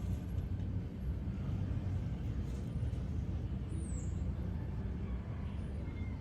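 Steady low rumble of motor-vehicle noise, with faint brief high chirps near the start and about four seconds in.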